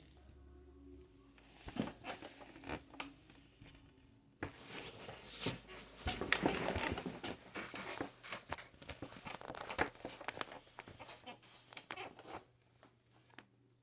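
Irregular rustling and crinkling with many scattered clicks, like something being handled close to the microphone. It starts about a second and a half in, is busiest in the middle, and dies away near the end.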